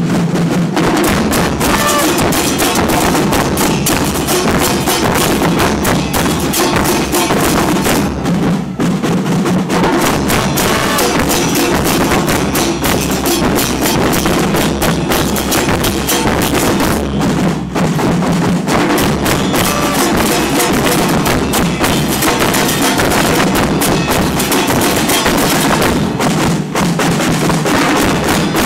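Carnival murga percussion playing loudly and without a break: dense, fast drumming on bass drums with a constant wash of cymbals.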